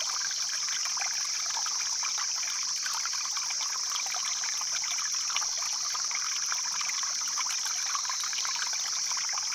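Stream water flowing and trickling steadily, with a constant high-pitched hiss above the sound of the water.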